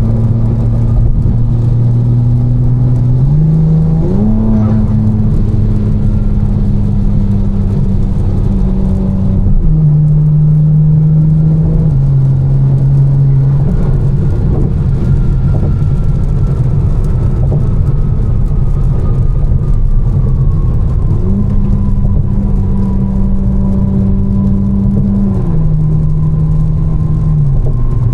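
Modified BMW M4 twin-turbo inline-six with catless downpipes and a Fi exhaust, heard from inside the car while cruising. The engine drone holds steady pitches and steps up and down in pitch several times as revs change.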